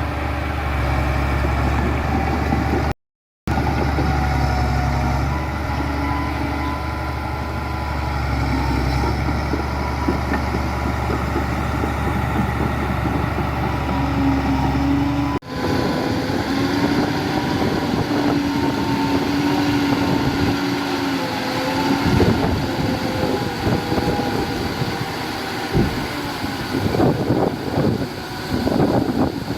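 Diesel engines of heavy earthmoving machinery (bulldozers and dump trucks) running with a steady low rumble, broken by a brief silent gap about three seconds in. About halfway through, the sound cuts abruptly to a thinner engine sound with irregular knocks and clanks.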